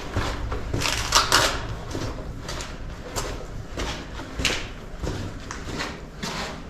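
Footsteps scuffing and crunching along a tunnel floor, uneven, about one or two steps a second.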